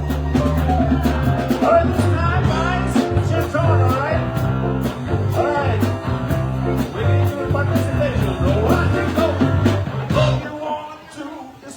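Live band playing a rock and roll number, with bass, guitar and a singing voice; the song ends about ten and a half seconds in.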